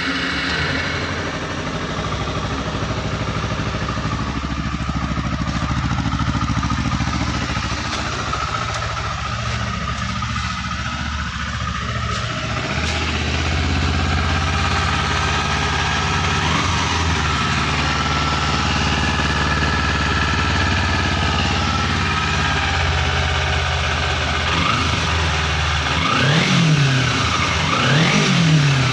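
A 250cc sport motorcycle with an aftermarket racing exhaust idling steadily, with a few short throttle blips that rise and fall in pitch, the strongest two near the end.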